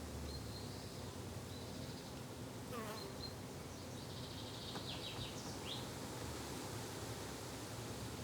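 Bees buzzing in a garden: a steady low drone, with a few short high bird chirps over it.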